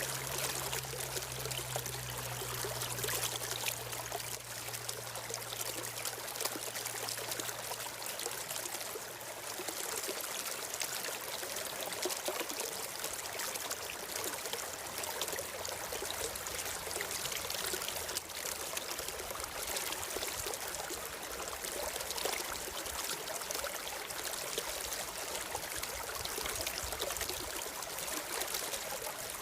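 Stream water flowing and trickling steadily. A faint low hum fades out over the first several seconds.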